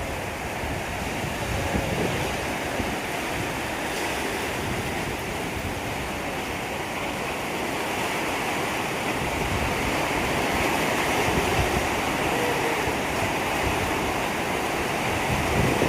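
Storm wind and heavy rain: a steady rushing with gusts buffeting the microphone.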